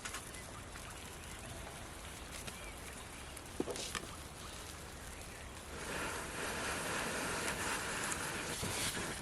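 Kebab grilling over a campfire: a background hiss with a few sharp crackles, then a louder sizzling hiss that swells up about six seconds in and stops abruptly.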